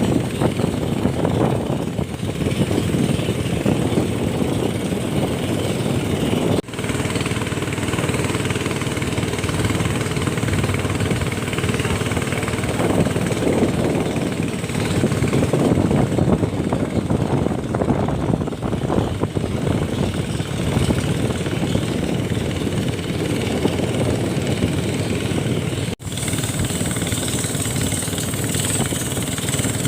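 An engine running steadily, with two brief breaks about 7 and 26 seconds in.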